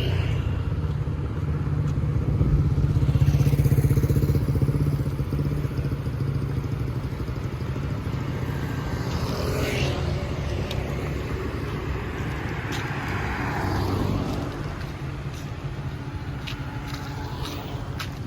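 Street traffic of motorbikes passing, a steady engine rumble that swells as vehicles go by, loudest about three to four seconds in.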